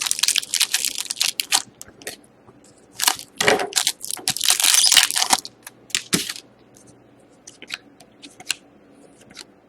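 A plastic trading-card pack wrapper being crumpled, crackling loudly in three runs in the first six seconds or so, followed by a few light ticks of cards being handled.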